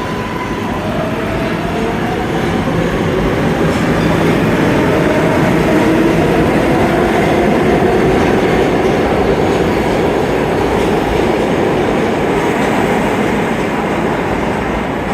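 An 11-car R188 subway train departing from an underground platform: wheels rumbling and clattering on the rails with an electric motor whine. It grows louder over the first few seconds, then holds steady.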